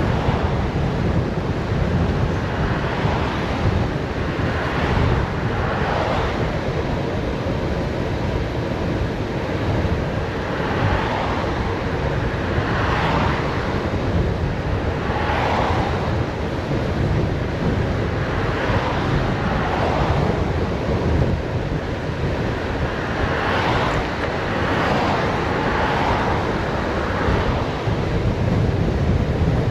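Steady wind noise on the microphone of a bicycle coasting fast downhill, with short swells of higher hiss every few seconds.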